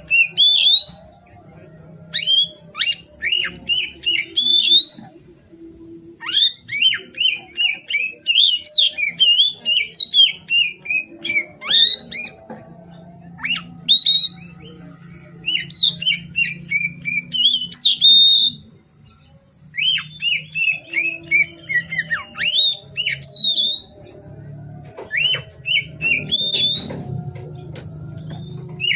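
Oriental magpie-robin (kacer) singing, bursts of rapid, varied whistled phrases several seconds long separated by short pauses. A faint steady high-pitched whine runs underneath.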